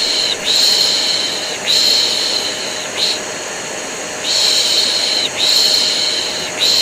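Rhythmic human "shhh" shushing: long hissing shushes of about a second each, with a short one about three seconds in and a brief pause before the next run. Underneath, a vacuum cleaner runs steadily. The two together are played as soothing white noise for a colicky baby.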